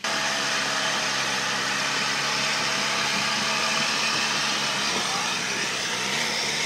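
Off-road 4x4's engine running at a steady pitch as it crawls through deep mud, with a steady hiss over it.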